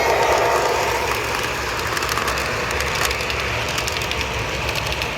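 Toy train set running on its track: a steady engine-like hum from the locomotive with light clicking from the wheels on the rails.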